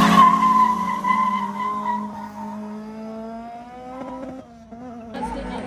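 Drag-racing cars launching with tyres squealing, then pulling away under acceleration. The engine note climbs steadily in pitch as it fades into the distance.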